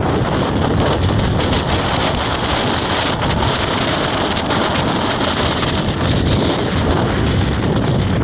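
Strong wind blowing across the microphone: a steady, loud rushing noise.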